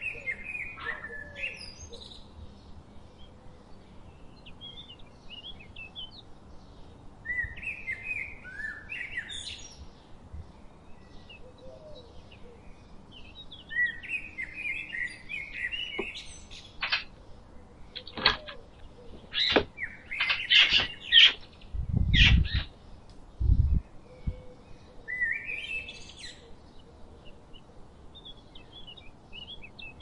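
Small birds chirping in short clusters again and again. In the middle comes a run of louder sharp knocks and clicks, with two dull thuds near the two-thirds point.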